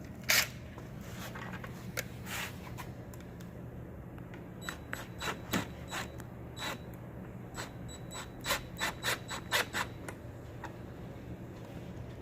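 A screw being driven by hand into the pump shoe, heard as short, irregular scraping and clicking strokes with a quick run of them near the end, over a steady low hum.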